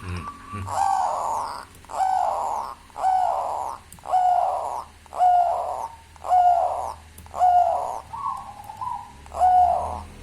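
Zebra dove (perkutut) cooing: a series of about nine similar coos, roughly one a second, the eighth one weaker and differently shaped.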